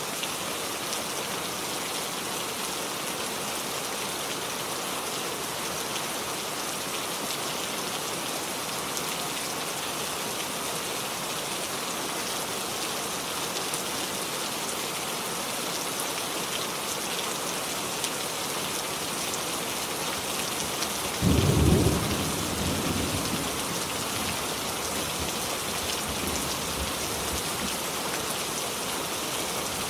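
Steady rain falling, a constant even hiss. About two-thirds of the way in, a low rumble of thunder breaks in, the loudest sound here, and dies away over a few seconds.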